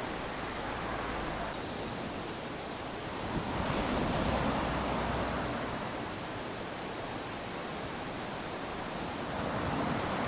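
Small waves lapping onto a sandy shore, a steady wash of surf. One wave swells in about three and a half seconds in and draws back a couple of seconds later, and another starts to rise near the end.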